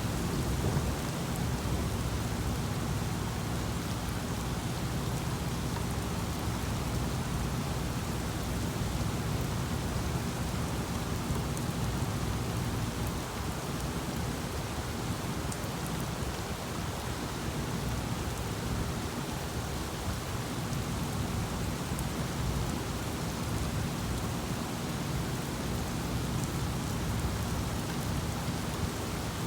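Heavy rain falling steadily during a thunderstorm, with a low rumble of thunder underneath.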